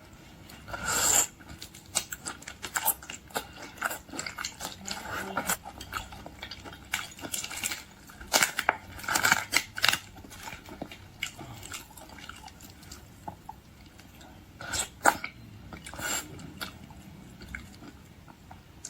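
Close-up eating sounds of boiled seafood: irregular crunching, chewing and wet mouth clicks, with a few louder crunchy bursts about a second in, around the middle and near the end.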